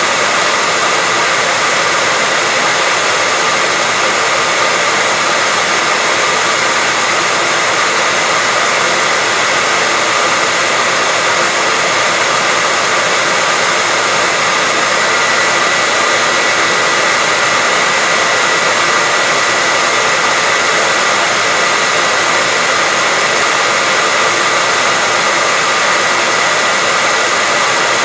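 Hair dryer running steadily: an even rush of blown air with a constant high whine, unchanging throughout.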